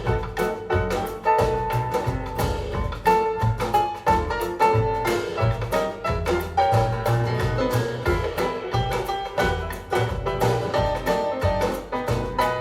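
An instrumental passage of a recorded song played back through Focal Grande Utopia EM Evo floor-standing loudspeakers: held notes over a bass line, with a steady beat of percussion and no singing.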